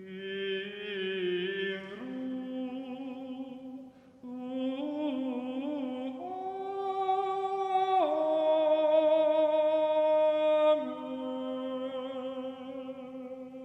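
Slow, unaccompanied-sounding singing: a voice holds long notes with a slight vibrato, moving to a new pitch every two seconds or so. There is a brief break about four seconds in, and the loudest, longest note comes about two-thirds of the way through.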